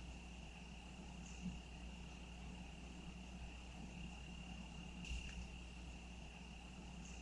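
Crickets trilling faintly on one steady high pitch, over a low steady hum. Two soft knocks stand out, about a second and a half in and about five seconds in.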